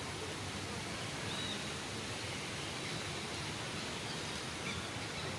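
Steady outdoor background noise, an even hiss, with a couple of faint, short high chirps.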